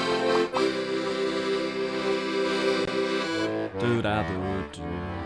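Accordion playing: a held chord for about three seconds, then a quick run of changing notes.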